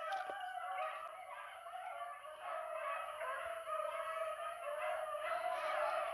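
A pack of beagles baying on a rabbit's trail, heard at a distance: many overlapping hound voices giving tongue at once, growing a little louder about halfway through.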